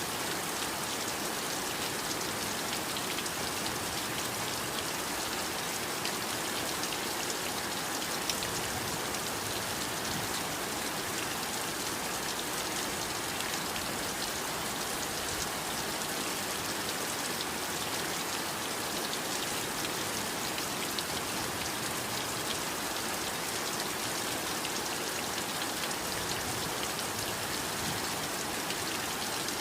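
Heavy rain falling steadily: a dense, even hiss of rain with fine patter of individual drops.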